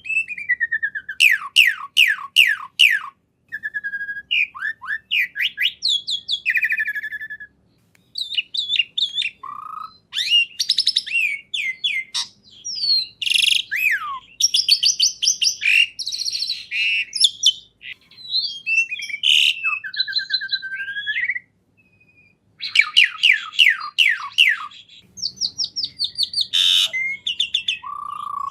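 A songbird singing a loud, varied song: fast runs of down-sweeping whistled notes, trills and chirps in phrases broken by brief pauses.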